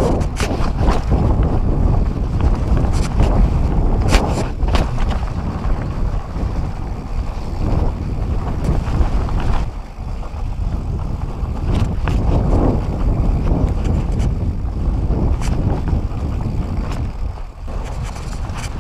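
Mountain bike descending dirt singletrack: a steady rush of wind over a chest-mounted microphone and tyres rolling on the trail, broken by many sharp rattles and knocks of the bike over bumps.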